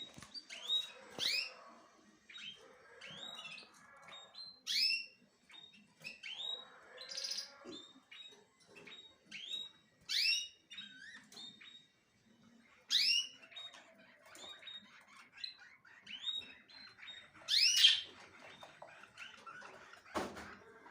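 Small birds chirping: loud, sharp sweeping calls every few seconds among softer twittering. A low thump comes near the end.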